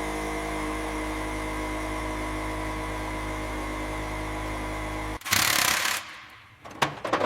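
A motor running with a steady hum, stopping abruptly about five seconds in. A short, loud hiss follows, then a few knocks near the end.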